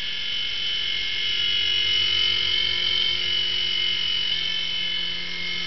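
Small electric RC toy helicopter's motors and rotor blades whining steadily in flight with a high pitch, shifting slightly as it is brought in to land.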